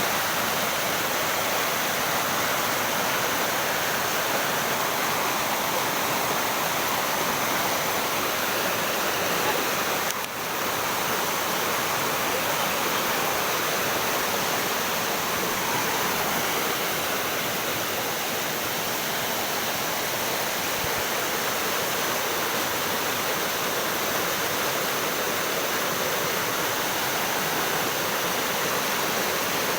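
Swift river in spate, swollen by the rainy season: a steady, loud rush of water, briefly dipping about ten seconds in.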